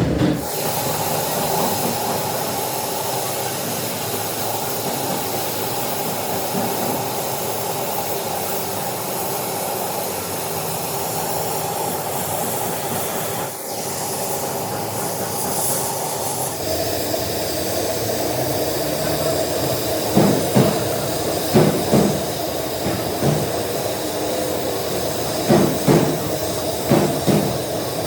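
Steady whir of workshop machinery that changes pitch about halfway through, followed by a series of sharp knocks near the end.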